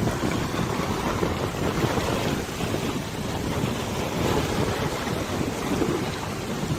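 Wind rushing over the microphone above river water washing, a steady noise that swells and eases in gusts.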